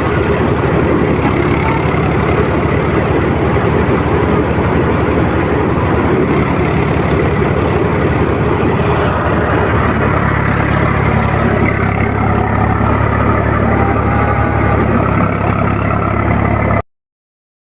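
Tractor engine running steadily, its low hum under a dense, loud roar, cutting off abruptly near the end.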